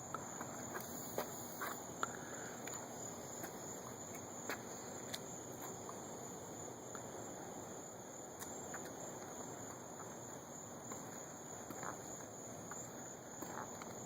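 Steady insect chorus, a constant high buzz, with a few soft footsteps and small clicks scattered through.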